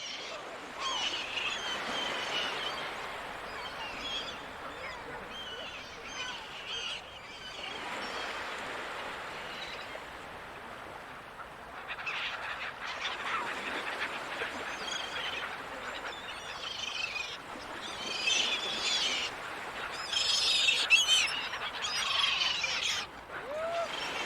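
Seagulls calling over the ocean, many overlapping cries, above a steady rush of sea noise. The calls grow busier and louder near the end.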